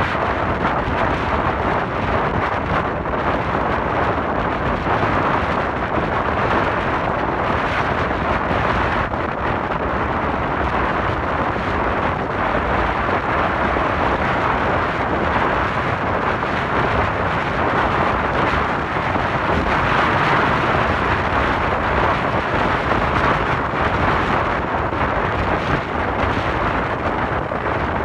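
Steady wind rushing over the microphone of a moving motorcycle, with the bike's road noise underneath.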